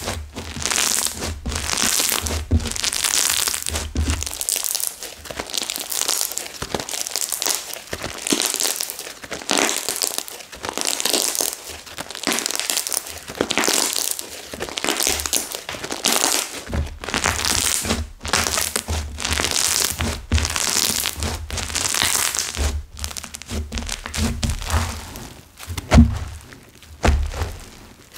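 Crunchy floral slime full of hardened clay bits being squeezed and pressed by hand, giving continuous dense crackling and crunching with occasional soft thunks.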